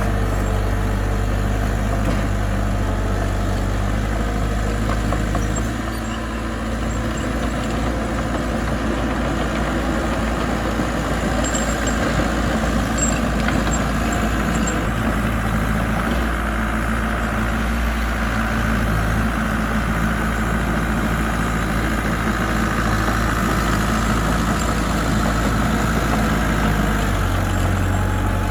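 Diesel engine of a piece of road-building machinery, a mini dozer or dump truck, running steadily with a low hum.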